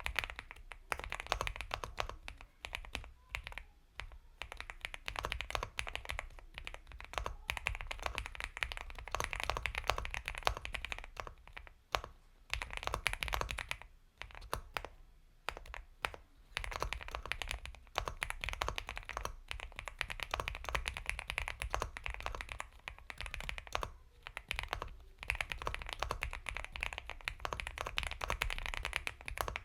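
Steady, fast typing on an Epomaker x Feker Galaxy 80 mechanical keyboard with Gateron Milky Yellow Pro linear switches: a dense run of soft, creamy keystrokes with a few short pauses between bursts.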